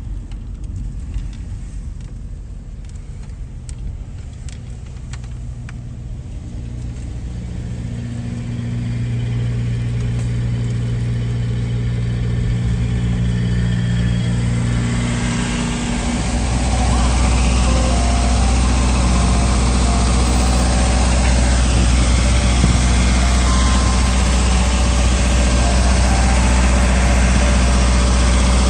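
A motor vehicle's engine running steadily and growing louder. A little past halfway a deeper, louder engine sound comes in and holds steady.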